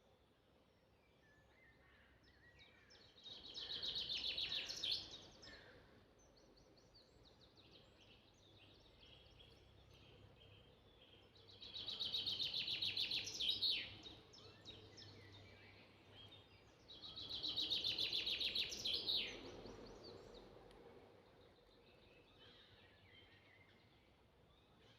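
A songbird singing three loud, fast trilled phrases, each about two seconds long and ending in a quick downward flourish, repeated several seconds apart. Fainter chirps from other birds come in between.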